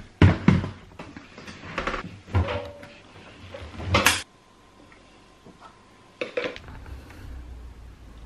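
Dishes and cutlery clattering and knocking as they are handled, with the loudest clatter about four seconds in. A faint steady tone follows for a couple of seconds, then a few more knocks.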